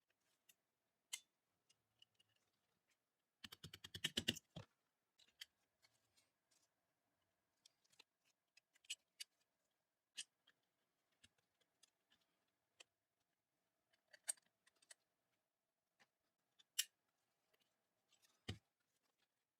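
Scattered small clicks and taps of gun parts being handled during restoration work, with a short rapid rattle of clicks about three and a half seconds in, over a faint steady hum.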